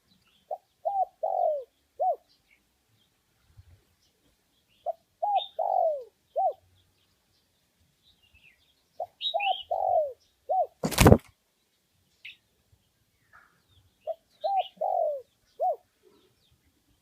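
Spotted dove calling: four cooing phrases, each a quick run of about four or five notes, repeated every four to five seconds. A single sharp click about eleven seconds in is the loudest sound, and faint high chirps sound between the phrases.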